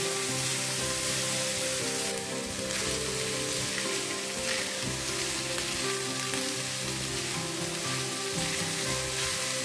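Fried rice with prawns and vegetables sizzling in a stainless steel pan while being turned over with a spatula, with a faint steady hiss of frying and light scrapes of the spatula. Background music plays underneath.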